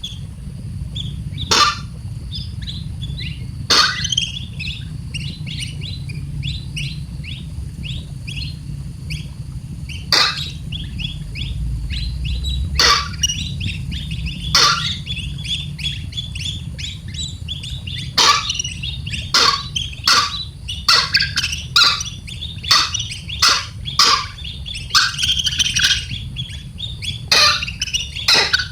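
Baby bird chirping rapidly and continuously, with loud sharp calls breaking in every second or two and coming more often in the second half, over a steady low hum.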